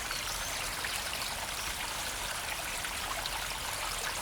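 Shallow spring-fed river flowing and trickling steadily, a continuous babble of water.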